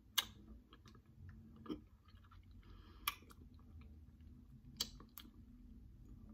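Faint chewing of a gummy Gushers fruit snack, with several sharp, wet mouth clicks and smacks along the way.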